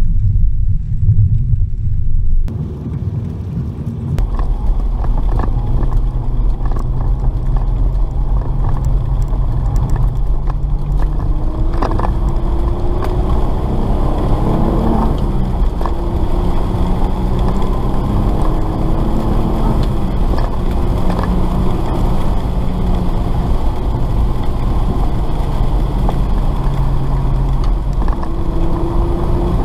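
Car engine running at speed, heard from inside the cabin, its pitch rising and falling as the car accelerates and shifts gear, over a steady low rumble and hiss from the tyres on the wet track.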